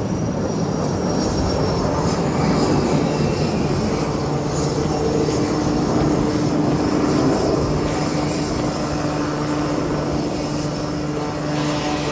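Jet engines of a formation of BAE Hawk jet trainers flying overhead: a steady, dense rushing noise with a faint, even whine.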